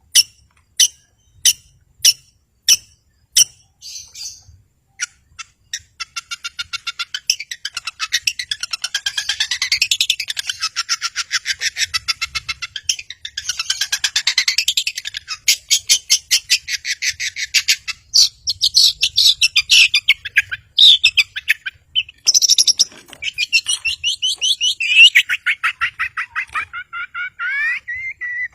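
Long-tailed shrike (cendet) singing: a series of sharp, evenly spaced single calls, then from about six seconds in a fast, continuous chattering song of rapid notes that sweep up and down in pitch.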